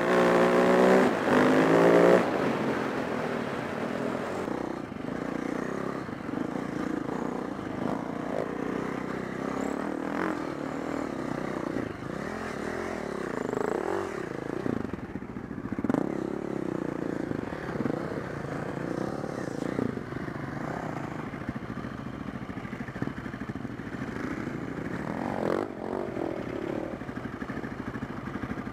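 Four-stroke single-cylinder dirt bike engine revving hard, climbing in pitch over the first two seconds. It then runs on with the revs rising and falling as the bike is ridden, with scattered clattering knocks.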